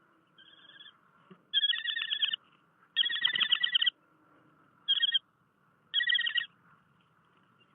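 Baby birds in a nest making begging calls in five short bouts of rapid chattering, the first one faint and the loudest near the middle.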